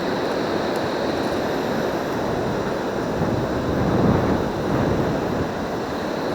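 Surf washing on the beach, mixed with wind rumbling on the microphone, swelling briefly about four seconds in. A faint steady high tone runs underneath.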